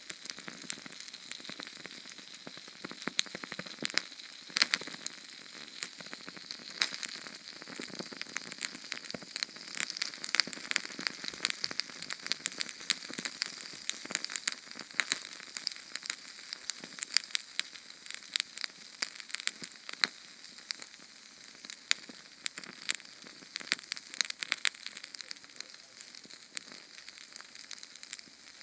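Small Sterno canned-fuel flame crackling and sizzling: a steady hiss with dense, irregular fine pops and snaps.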